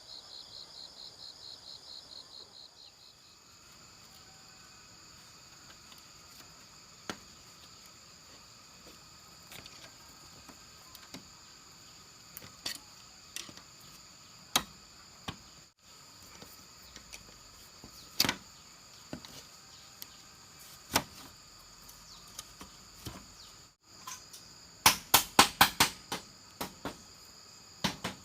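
Insects buzzing steadily, with a fast pulsing insect trill in the first three seconds. Scattered sharp knocks, and near the end a quick run of about eight sharp strikes.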